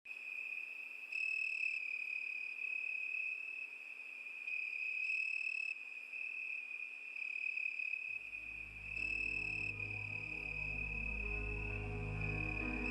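Crickets chirping in a steady high trill that swells and eases every few seconds. About eight seconds in, soft music with low sustained notes comes in beneath them.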